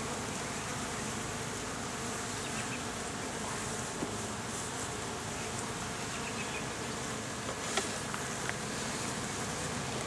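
Honeybees buzzing in a steady swarming hum around an open hive. Two light clicks stand out near the end.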